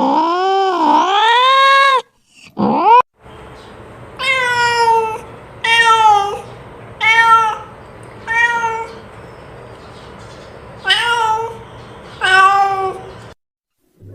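Cat yowling: a long wavering call that falls and rises, a short cry, then a string of six meows about a second and a half apart.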